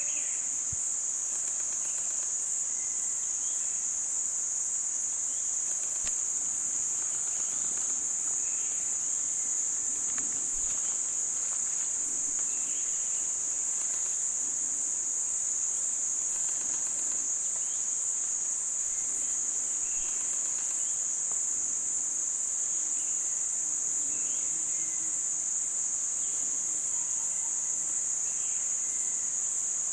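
Steady, unbroken high-pitched drone of forest insects, with a few faint short calls scattered through it.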